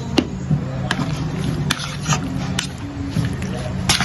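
Kitchen clatter: several sharp clicks and knocks of utensils and dishes over a low steady hum, the loudest knock near the end.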